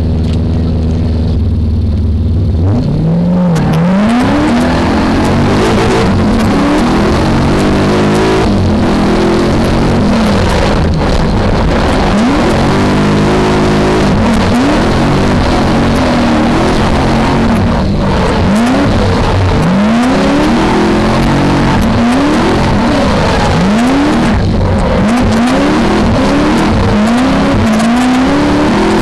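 V8 engine of a BMW E30 drift car heard from on board, holding a steady low note for the first couple of seconds, then revving up and dropping back again and again as the throttle is worked through a drift run.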